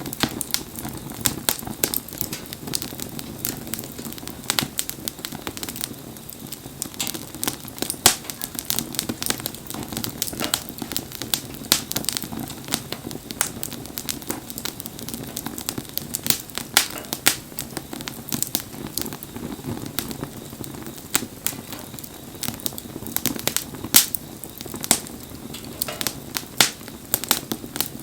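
Wood campfire crackling, with frequent irregular sharp pops and snaps over a steady background noise.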